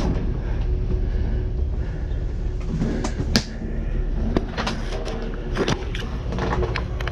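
Knocks, clanks and rattles of a discarded item being broken open by hand, with one sharp crack about three seconds in, over a steady low rumble.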